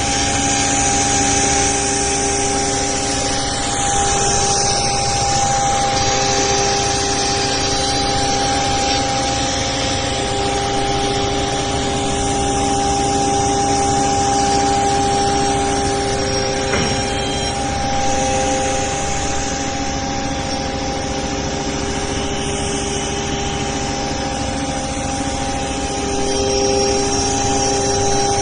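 CNC router running, its spindle giving a steady whine over a continuous hissing machine noise. Lower tones fade in and out at times, without any sudden stop or start.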